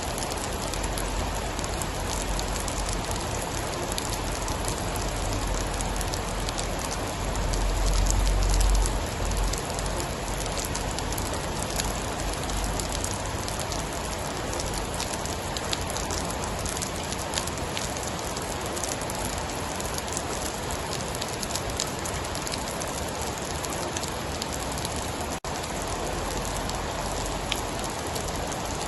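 Steady heavy rain: a dense hiss with many small drop ticks. A low rumble of distant thunder swells and fades about seven to nine seconds in.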